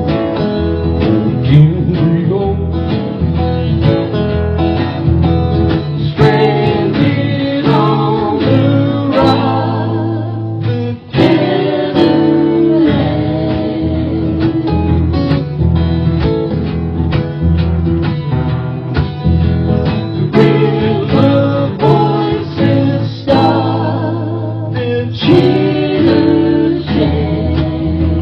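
Live folk/Americana song: acoustic guitars strummed and plucked, with voices singing at times.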